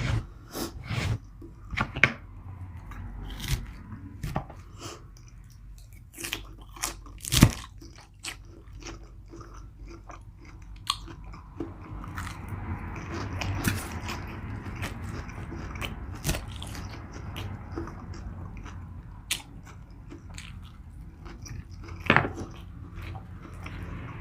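Close-miked chewing and biting, with many sharp crunches and clicks. About halfway through, the chewing turns into a denser, steadier crackle.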